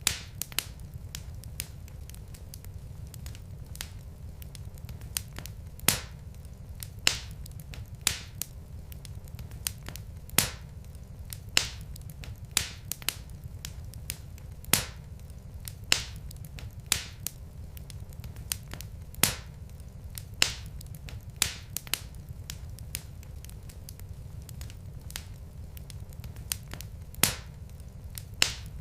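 Wood fire in a fireplace crackling: sharp, irregular pops and snaps, roughly one a second, over a steady low rumble of burning logs.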